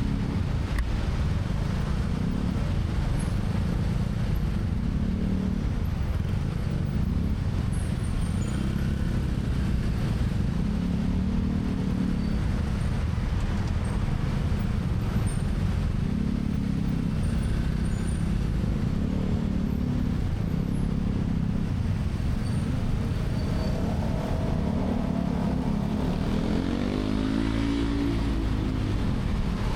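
Motorcycle taxi riding through city traffic, a steady heavy low rumble of engine, wind and road. The engine pitch rises and falls as it speeds up and slows, and a sweeping pitched sound passes briefly near the end.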